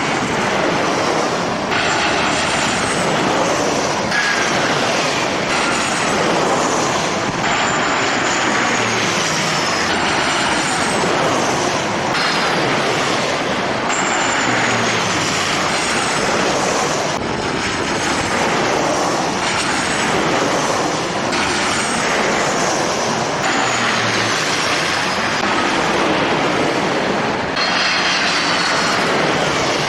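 Jet airliner engine noise: a loud, steady rush with high whines that glide downward again and again, changing abruptly every few seconds.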